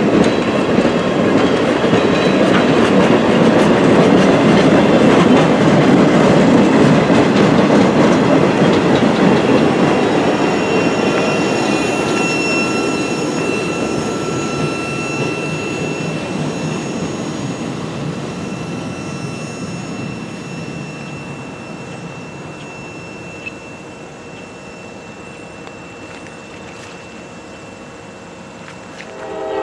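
Train of old railroad passenger cars and cabooses rolling past at low speed, the wheels running on the rails with a thin, faint squeal midway. The sound fades steadily as the end of the train passes and it moves away.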